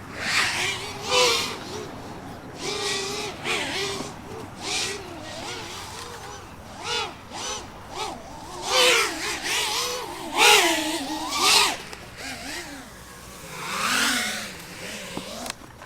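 Racing FPV hexacopter's motors and propellers buzzing like a swarm of angry wasps. The pitch wavers up and down with the throttle, with repeated louder surges about every second or two.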